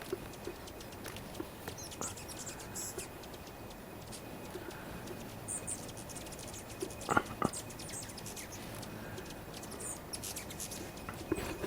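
Hummingbirds squabbling at a feeder, giving short, high, scattered squeaks and chirps. Two louder sharp clicks come a little past the middle.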